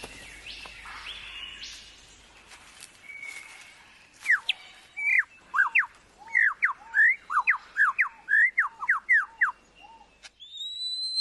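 Superb lyrebird singing: after a few soft rising calls, a loud rapid series of sharp whistled notes, each sweeping down and up, about two a second, starts around four seconds in. Near the end comes one long rising whistle that levels off.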